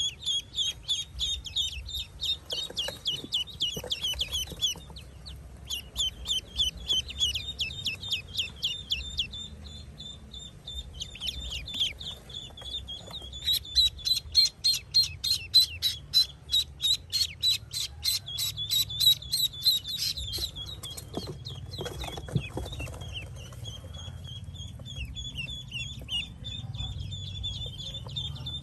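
Young ducklings peeping: short, high, downward-sliding peeps in rapid runs of several a second, loudest and fastest in a run through the middle.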